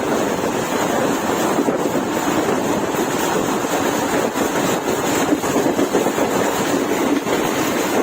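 Steady rushing noise of a moving passenger train, with wind blowing across the microphone.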